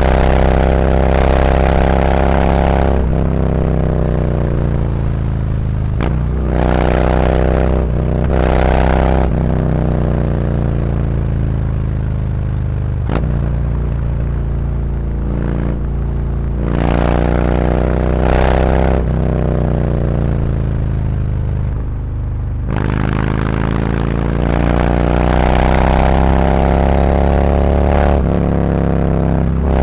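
Harley-Davidson Road Glide's V-twin engine through SuperTrapp slip-on mufflers, pulling through the gears: the revs climb and drop sharply at each upshift, several times over, then fall away to a low burble about three-quarters through before climbing again.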